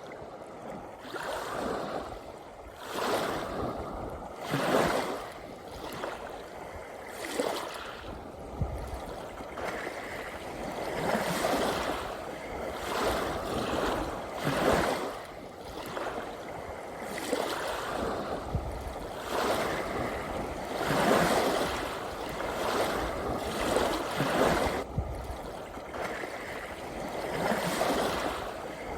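Ocean waves washing and splashing, surging in every two to three seconds.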